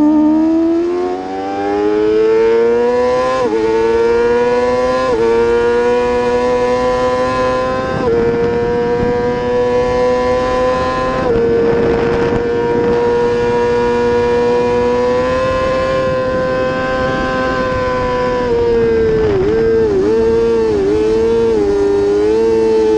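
Racing superbike engine at full throttle, its pitch climbing and dropping back at three quick upshifts, then held at high revs. Near the end the pitch dips and recovers four times in quick succession as it shifts down.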